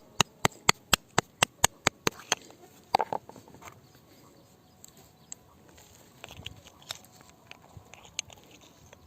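A hammer tapping on rock in a quick, even run of sharp taps, about four a second, that stops a little over two seconds in. A heavier knock follows about a second later, then only faint scattered clicks.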